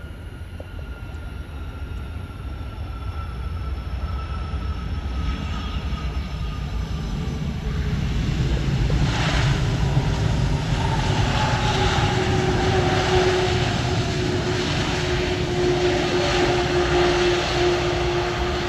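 Airbus A330 jet engines on approach to land, a low rumble that grows steadily louder over the first half as the airliner closes in. Over it are engine whine tones that slowly fall in pitch as it passes.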